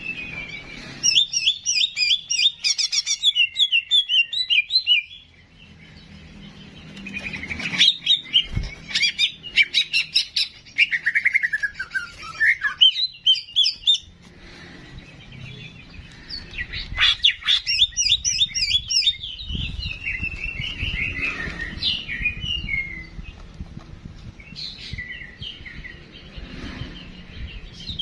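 Songbird singing in long runs of rapid, varied chirps and trills, broken by short pauses, as in a bird-song training recording.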